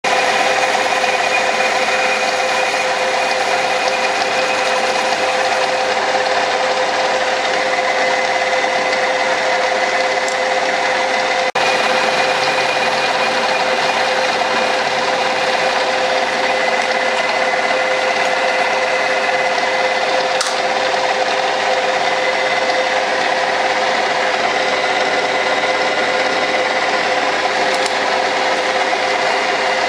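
Metalworking machine tool running steadily, its motor and gearing giving a constant whine, with a brief dropout about a third of the way in.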